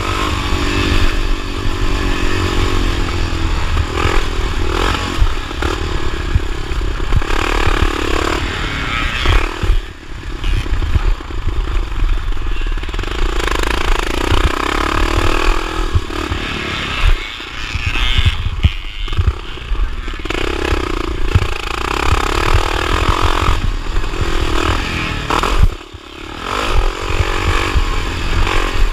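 1979 Honda XR500's single-cylinder four-stroke engine revving up and easing off again and again as it is ridden hard through a motocross course. The throttle is briefly chopped three times, with a steady low rumble and clatter underneath.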